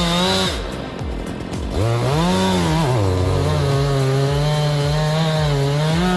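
Chainsaw engine revving: its pitch drops and climbs again in the first couple of seconds, then holds at a steady high speed.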